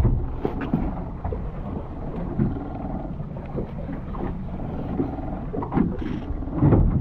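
Steady low rumble aboard a fishing boat at sea, with scattered knocks and a louder low burst near the end.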